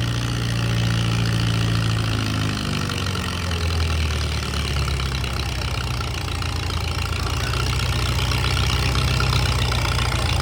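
Farm tractor engine running hard during a tractor pull. Its pitch drops about two and a half seconds in, then it runs steadily at the lower speed.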